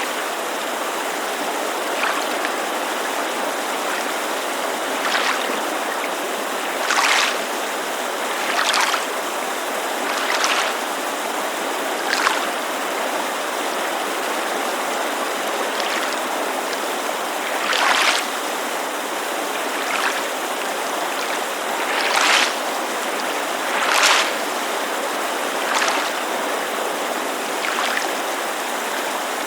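Small waves lapping against a lake shore in short, irregular splashes every second or two, over the steady rush of a creek.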